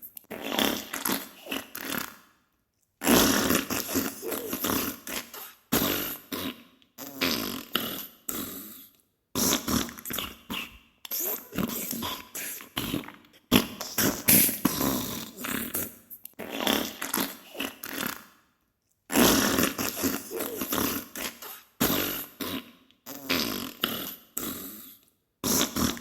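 Diarrhea sound effect: a run of fart sounds in bursts of about one to two seconds, each breaking off into a short silence before the next.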